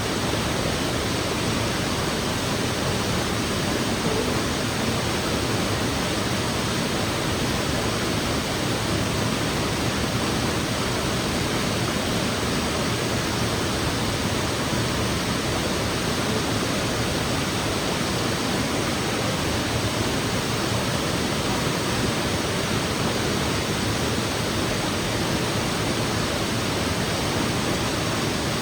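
Waterfall's falling water rushing steadily, an even noise that does not change.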